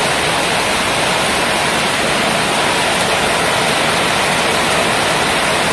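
Torrential downpour: a loud, steady hiss of heavy rain falling on roofs and a flooded street.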